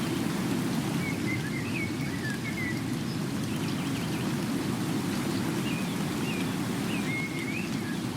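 Steady rain falling. Short wavering bird whistles come through faintly in two bouts, one about a second in and one near the end.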